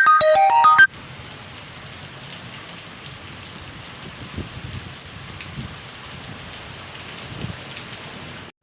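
Heavy rain falling steadily, an even hiss, with a few faint low thuds. A loud electronic jingle of stepping notes plays over it for about the first second, then stops abruptly.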